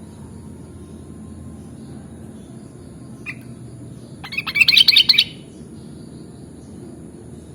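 Sooty-headed bulbul (kutilang) calling: a single short note about three seconds in, then a quick burst of rapid, loud notes lasting about a second. A steady low background hum runs underneath.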